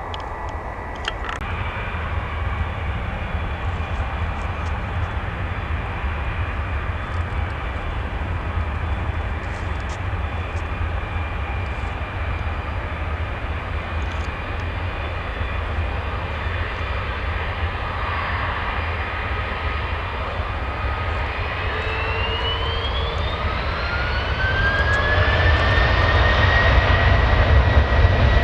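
Jet airliner engines running steadily with a deep rumble; in the last several seconds a whine rises in pitch and the sound grows louder as the engines spool up.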